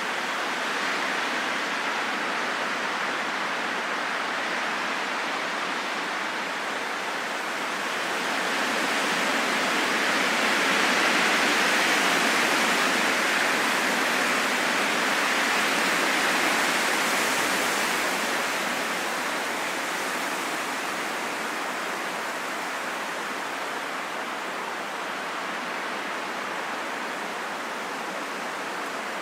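Wind blowing as a steady rushing hiss, swelling louder for several seconds in the middle and then easing back.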